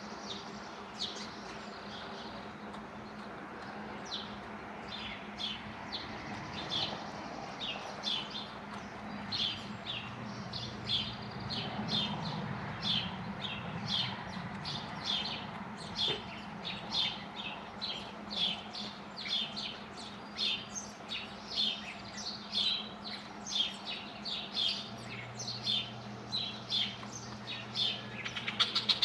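A small bird chirping over and over, short high chirps about two a second, coming faster and louder near the end. A faint steady low hum runs underneath.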